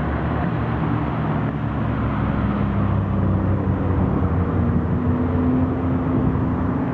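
A Lotus sports car's engine running under load, its pitch climbing slowly through the second half as the car accelerates.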